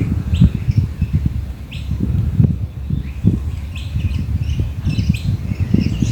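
Birds chirping, short rising notes repeated every second or so, over a louder irregular low rumbling on the microphone.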